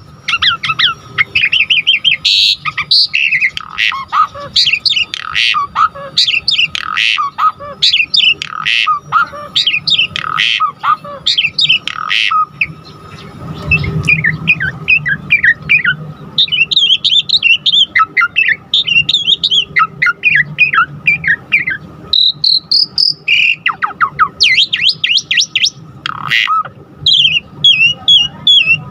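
Asian pied starling (jalak suren) singing continuously, a fast, varied jumble of whistles, chatters and sliding notes packed with different phrases. A faint steady tone runs beneath the song.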